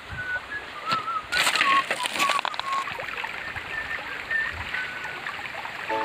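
Birds calling in short whistled notes, with a brief noisy crunch about a second and a half in that lasts about a second.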